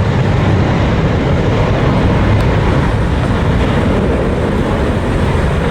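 Jet engines of an Alaska Airlines airliner, a loud steady rumble.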